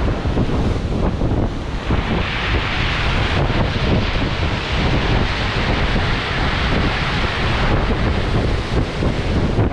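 Strong wind buffeting the microphone in a steady low rumble, with a brighter rushing hiss that swells about two seconds in and fades near the end.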